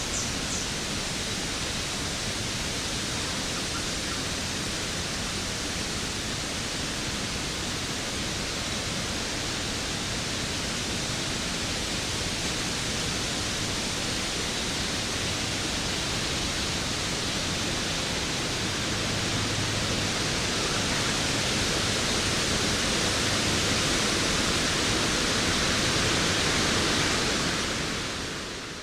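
Waterfall rushing in a steady, dense hiss of falling water, fading out over the last couple of seconds.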